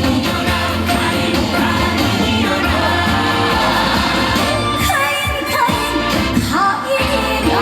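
Live trot song: a woman singing over band accompaniment with a steady bass, her voice sliding and bending between notes about two-thirds of the way through.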